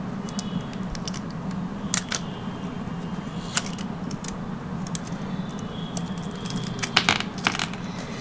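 Hard plastic clicking and knocking as a small cordless vacuum is handled: a few sharp clicks about two seconds in and near three and a half seconds, then a cluster of louder knocks near the end, over a steady low hum.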